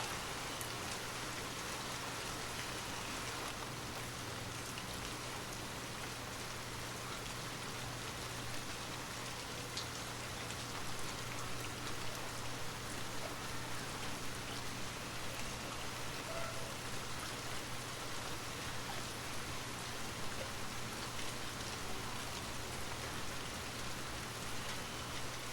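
Steady rain falling, an even patter with scattered louder drops, growing a little heavier and more uneven about ten seconds in.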